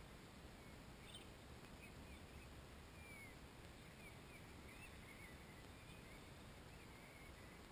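Near silence, with faint scattered bird chirps, short and gliding, over a low steady hiss and rumble.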